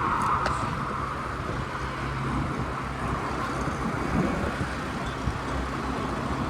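Car engine idling with a steady low hum, under a general background noise.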